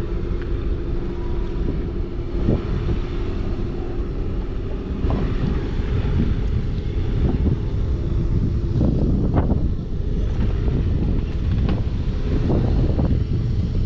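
Boat engine running under way, a steady rumble with one held tone, and wind buffeting the microphone. Short sharp bursts come through from about five seconds in.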